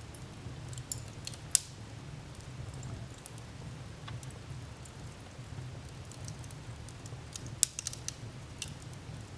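Wood fire burning in a fireplace: a steady low rumble of the flames with scattered sharp crackles. Two loud pops stand out, about a second and a half in and about seven and a half seconds in, the second followed by a quick run of smaller crackles.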